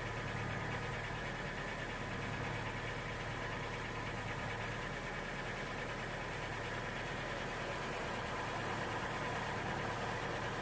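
A vehicle engine idling with a steady, even hum that does not change.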